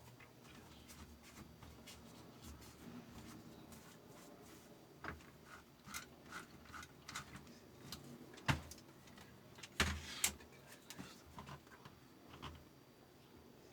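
Scattered light clicks and metallic knocks of small parts and tools being handled, growing busier midway, with the sharpest knocks about eight and a half and ten seconds in.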